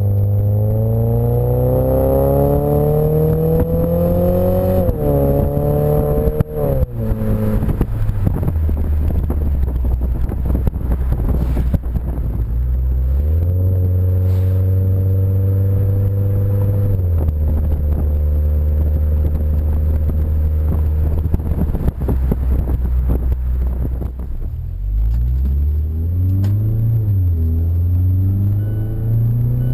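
2015 Mazda CX-5's four-cylinder engine through a Corksport axle-back exhaust, pulling under load. Its pitch climbs for several seconds and then drops away. Later it holds steady notes at two different speeds, and it climbs again near the end.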